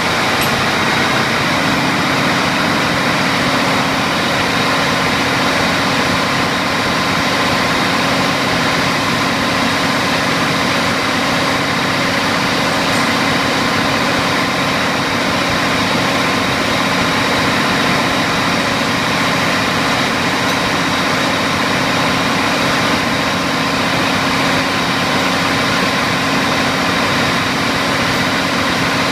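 Steady, loud din of engine-room machinery running, a dense constant noise with several steady hums layered in it and no change throughout.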